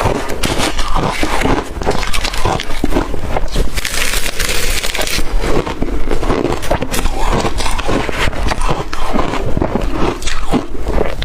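Biting and chewing blender-crushed ice close to the microphone: a dense, loud run of crunches and crackles with no let-up.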